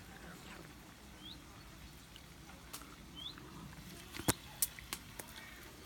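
A small bird repeating a short rising chirp about every two seconds, with three sharp clicks a little over four seconds in.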